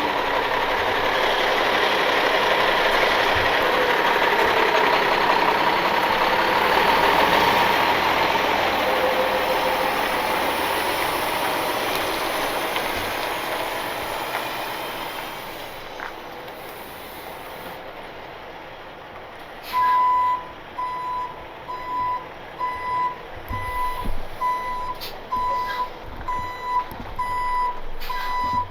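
Truck running, its noise fading away over the first half, then a reversing alarm beeping about once a second as the rollback tow truck backs up.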